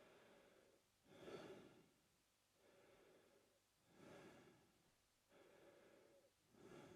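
A man breathing slowly and steadily through his mouth, quiet, with about three full in-and-out breaths, louder and softer breath phases alternating roughly every one and a half seconds.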